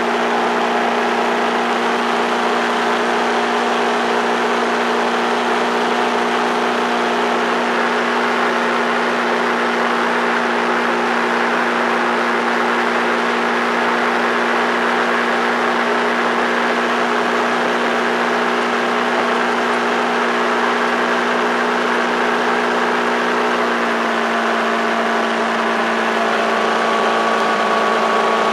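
Small motorboat's engine running steadily with the boat under way, a constant droning note over the hiss of wind and water; the engine note shifts slightly about 24 seconds in.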